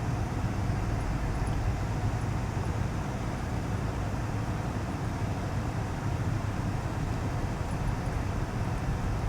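Steady low drone of a four-wheel-drive vehicle's engine and road noise, heard from inside the soft-top cabin while driving.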